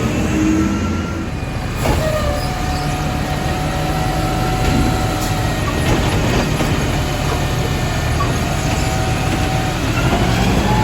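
Garbage truck running steadily with a low engine rumble, faint thin squeals coming and going above it, and a single knock about two seconds in.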